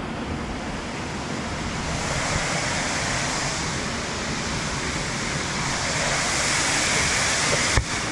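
Large waterfall rushing: a steady wash of falling water that gets louder about two seconds in. A brief knock near the end.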